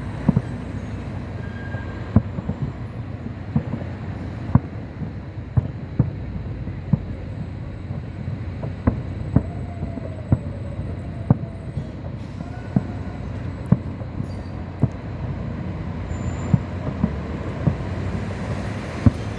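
Fireworks going off: sharp, short bangs at irregular gaps of about a second over a steady rumbling background noise.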